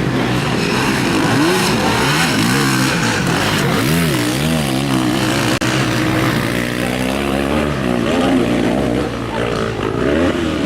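Several motocross bikes racing on the track, their engines revving up and down, with more than one engine heard at once.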